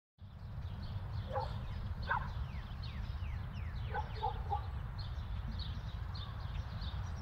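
Small birds chirping in short, quickly falling calls, over a steady low rumble.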